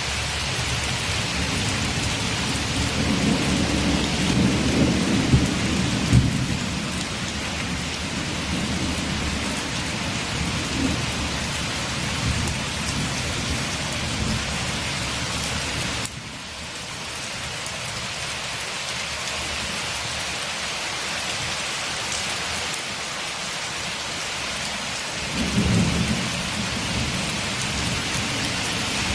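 Steady rain on a window with thunder rumbling low twice, a long roll a few seconds in and a shorter one near the end. The rain drops suddenly in level about halfway through.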